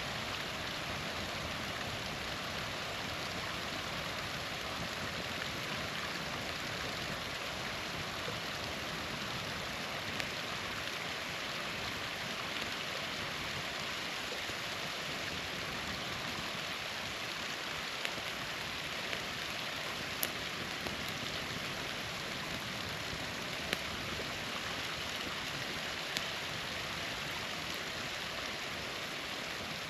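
Small waterfall rushing steadily, with a handful of sharp pops from a crackling campfire now and then.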